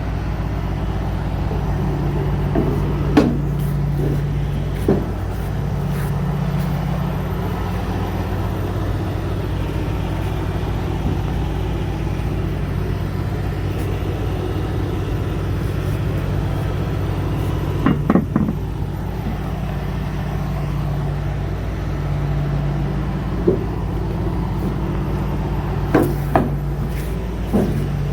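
Big-rig truck's diesel engine running steadily at a low, even pitch, with a few short sharp knocks now and then.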